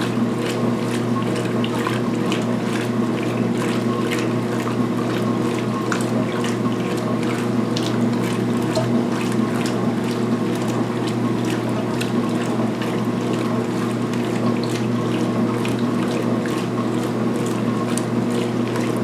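2016 Speed Queen belt-drive washer agitating at high speed during its pre-wash: a steady motor and transmission hum under water and wet towels sloshing, with frequent irregular clicks and splashes.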